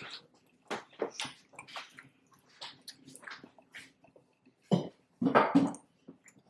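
Close-miked eating of fried cheeseburger egg rolls: a run of short, irregular crisp crackles from chewing, with a few louder, fuller bursts a little before the end.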